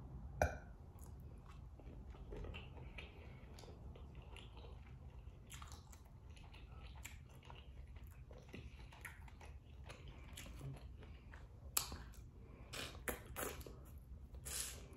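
Close-miked mouth sounds of eating shrimp boil dipped in sauce: chewing with short, sharp wet clicks. A loud click comes about half a second in and a cluster of them near the end.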